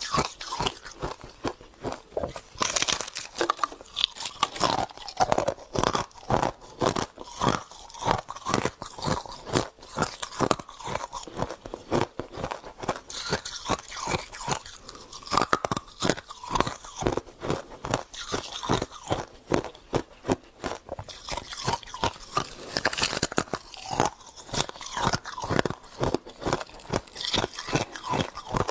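Close-up crunching and chewing of frost scraped from a deep freezer, with crisp crunches coming several times a second.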